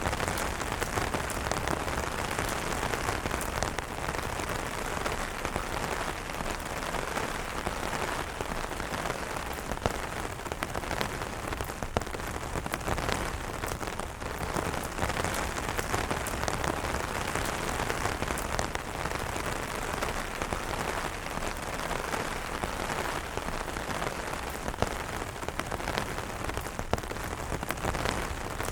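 Steady rain falling on umbrella fabric, an even hiss of drops with a few sharper single drop hits standing out now and then.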